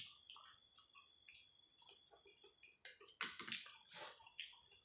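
A person chewing a mouthful of pork-bone curry with vegetables: soft wet mouth clicks and smacks, with a few louder smacks a little after three seconds in.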